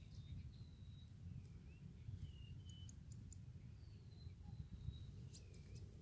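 Faint, thin whistled bird calls: several short notes, some held level and some sliding down, over a low rumble. About three seconds in there is a quick run of four tiny high ticks.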